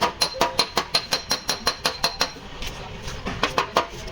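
Rapid hammer blows on the sheet metal of a crash-damaged car body, about five ringing strikes a second, with a brief slowdown past the middle: panel beating to work out accident damage.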